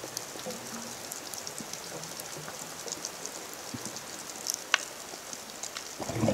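Steady underwater crackling and fizzing of a coral reef, like light rain, with one sharper click about four and a half seconds in.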